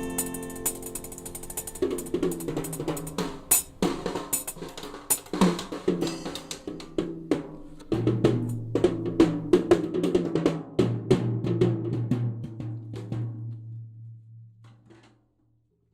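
Song's instrumental ending: a band with drum kit, snare and bass drum plays strokes and rolls over held chords. A low bass note joins about halfway, and the whole sound fades out to silence shortly before the end.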